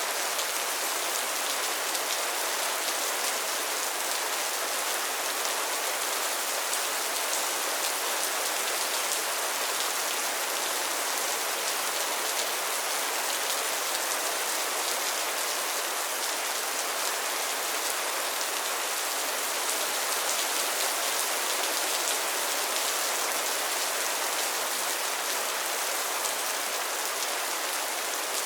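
Steady rain falling on pond water and lily pads: an even hiss of many small drop patters, without let-up or thunder.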